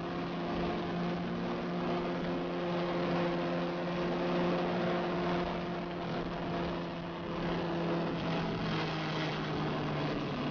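Sport motorcycle engine running at a steady pitch while cruising at speed, under heavy wind rush. The engine note shifts slightly near the end.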